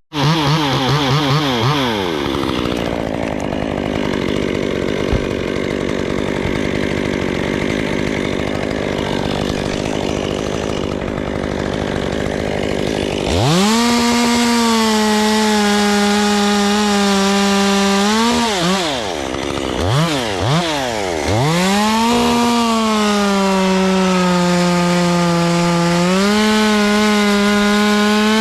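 Two-stroke chainsaw cutting wood. It drops off from high revs at the start and runs rough for a while, then about halfway in goes to full throttle and holds steady in the cut. Its pitch dips and recovers a few times as the wood loads the saw.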